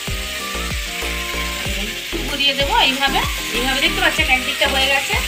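Chicken and vegetable shashlik skewers sizzling as they fry in a hot pan, with background music that has a steady beat playing over it.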